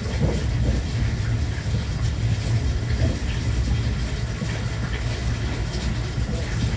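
JR West Thunderbird limited express electric train running along the line, a steady low rumble with rail noise over it.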